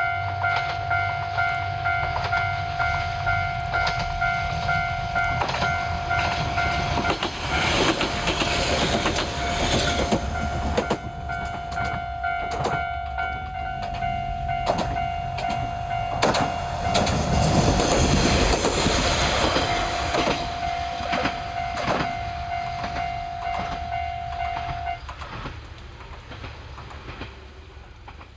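Diesel railcar passing on jointed track: it grows louder to a peak about two-thirds of the way through, with repeated clacks of the wheels over rail joints, then fades away. A steady high ringing tone sounds alongside and stops suddenly near the end.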